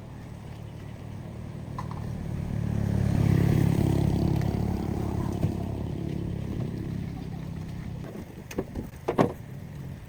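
A vehicle passing by, its rumble swelling to a peak and slowly fading, followed near the end by a few sharp knocks.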